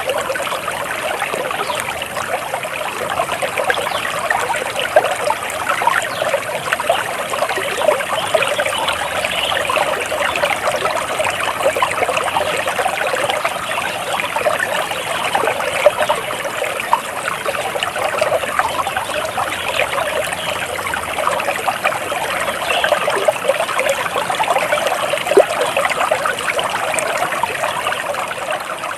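Flowing water trickling and splashing steadily, with no break or change.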